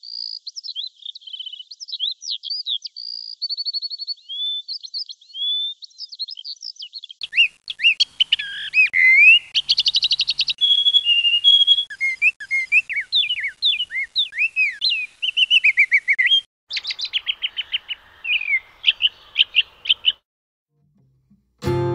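Songbirds singing and chirping, many quick whistled calls and trills. From about seven seconds in, several birds overlap. The birdsong stops about twenty seconds in.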